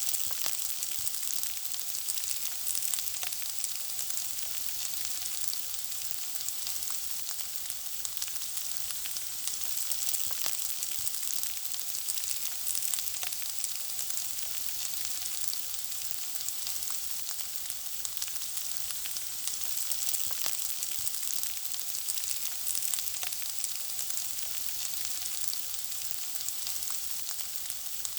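Food frying in hot oil: a steady sizzle with many small crackles and pops throughout.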